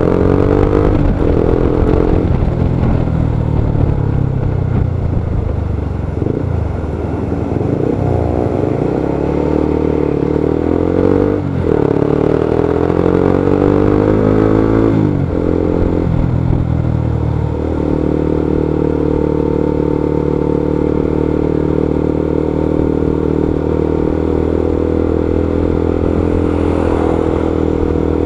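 Motorcycle engine in stop-and-go traffic. Its pitch rises and falls with the throttle several times in the first fifteen seconds or so, then holds a steady note for the rest.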